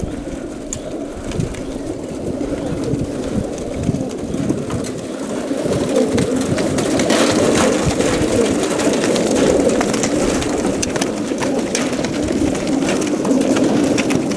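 A crowd of young racing pigeons cooing together in full crates on a transport trailer, a dense continuous murmur that grows louder about halfway through, with scattered clicks and scuffles of birds moving in the crates.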